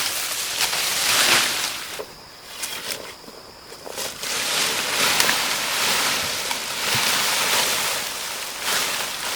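A rushing, hissing noise that dies down for about two seconds near the middle, with a few small clicks.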